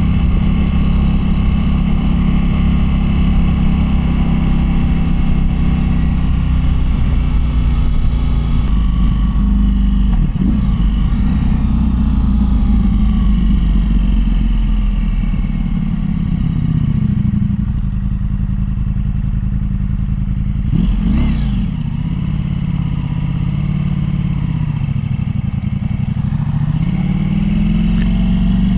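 Motorcycle engine running on the road. In the second half its note drops and climbs back up twice as the bike slows and picks up speed again.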